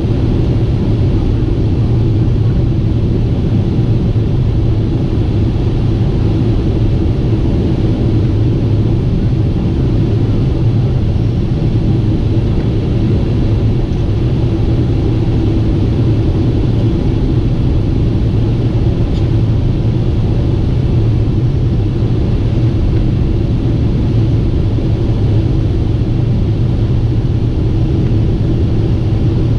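Steady in-flight drone of a Boeing 747-8 airliner: an even, loud low rumble of engines and airflow that does not change.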